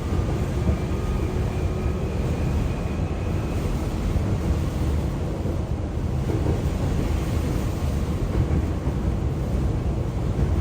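Hankyu commuter train running, heard from inside the carriage as a steady low rumble, with a faint whine in the first few seconds.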